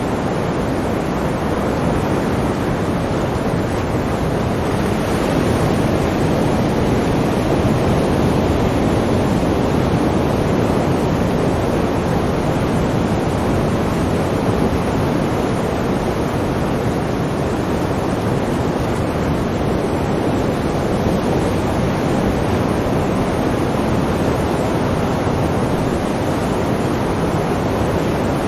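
Ocean surf: a continuous wash of sea waves, swelling gently about a fifth of the way in and then easing back.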